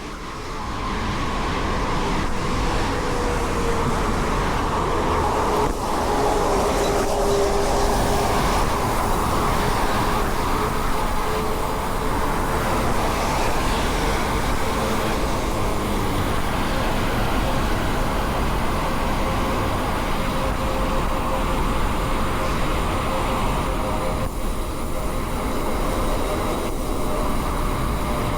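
Mountain bike rolling along a dirt road: steady tyre noise on the loose surface with the bike's rattle, and a faint whine that wavers in pitch.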